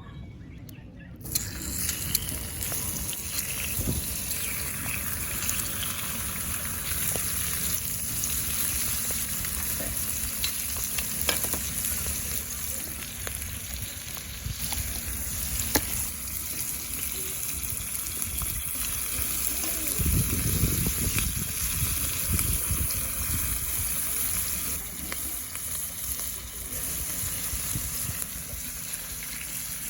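Food sizzling and frying in a pan, a steady hiss that starts suddenly about a second in, with a few light clicks.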